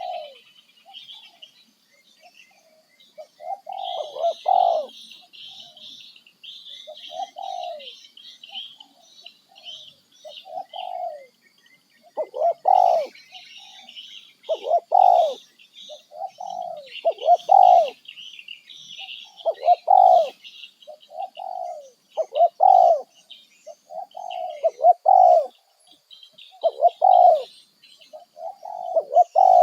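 Birds calling: one call, a short falling note, repeats every one to two seconds and comes louder and more regularly in the second half. Smaller birds chirp continuously at a higher pitch.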